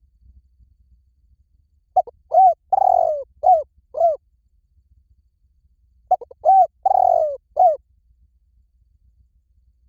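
Spotted dove cooing: two phrases of four or five low coos each, a couple of seconds apart, the middle coo in each phrase the longest.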